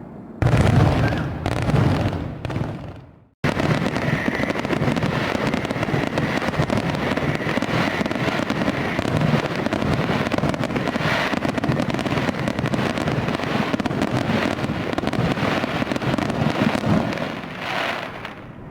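Fireworks: a loud burst about half a second in that fades away, then, after an abrupt cut, a dense, steady crackling of many small explosions that dies down near the end.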